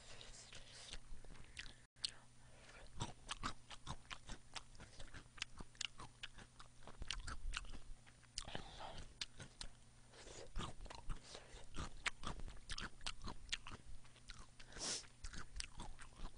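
Close-miked chewing of a person eating, with many small wet clicks and smacks of the mouth.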